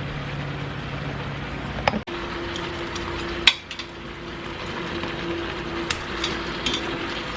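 Whole chicken sizzling as it sears in a pressure cooker's inner pot, under a steady hum, with a few sharp knocks against the pot, the loudest about three and a half seconds in.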